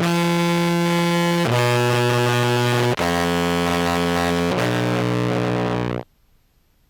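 Contrabass clarinet played through fuzz and modulation pedals: four held notes, each about a second and a half long, with a thick distorted tone, cutting off suddenly about six seconds in.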